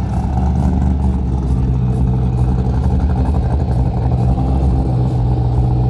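Car engine idling with a steady, deep rumble.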